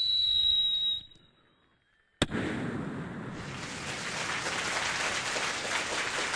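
Mimicked fireworks through a stage microphone. A high rocket whistle slides slightly down and cuts off about a second in. After a short silence comes a sharp bang, followed by a long crackle of bursting crackers.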